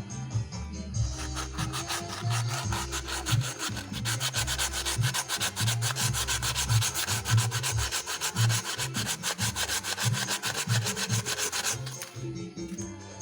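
Abrasive rubbed by hand in quick, even back-and-forth strokes against a reground motorcycle camshaft's lobe, smoothing out an uneven lobe profile that makes the engine noisy; the strokes stop about a second before the end. Background music runs underneath.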